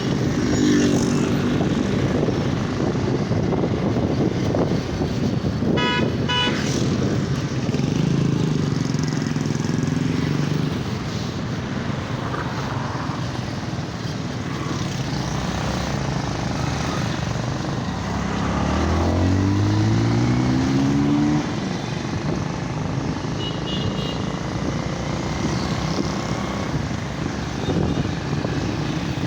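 Motorcycle riding through city traffic: steady engine and road noise, with a short honk of a horn about six seconds in. Around two-thirds through, an engine accelerates, its note rising in pitch for a few seconds.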